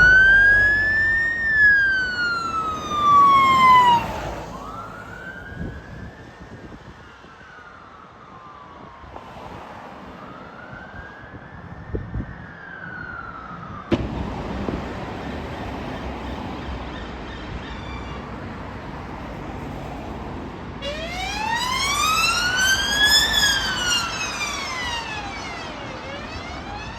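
Fire engine sirens wailing in slow rising and falling sweeps over the rumble of the vehicles, the sound cutting off abruptly twice.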